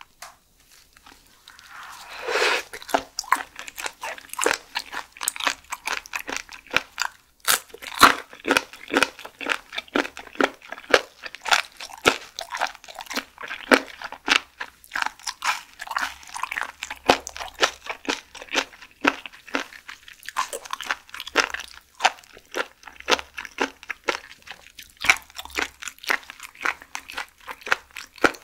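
Close-miked chewing of raw seafood: many wet, crisp crunching clicks in quick succession. They start about two seconds in and keep going.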